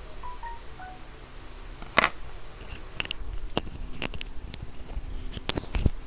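Several sharp clicks and knocks of small tools or parts being handled on a repair bench, the loudest about two seconds in, over a steady low hum.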